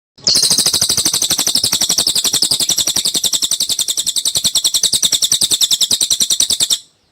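Cililin bird song: a fast, even trill of high, sharp notes, about a dozen a second. It starts abruptly and cuts off suddenly near the end.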